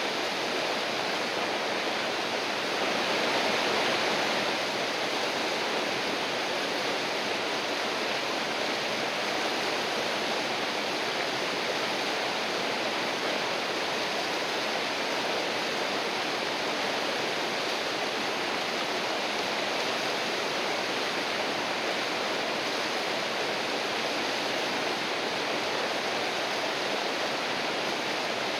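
River water rushing in a steady, even flow, briefly a little louder about three seconds in.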